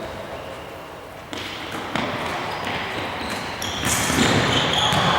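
Indoor tchoukball play echoing in a sports hall: a couple of sharp knocks of the ball, then high sneaker squeaks on the floor and a louder burst of noise near the end.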